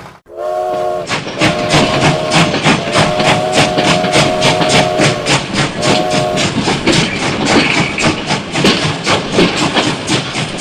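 A multi-note horn sounds in four blasts, the third one long, over a fast, steady clatter of about four or five beats a second, like a train running over rail joints.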